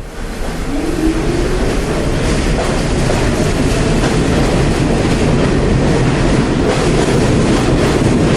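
New York City subway train running between stations, with a steady rumbling, rattling wheel-on-rail noise. A motor whine rises in pitch about a second in as the train picks up speed.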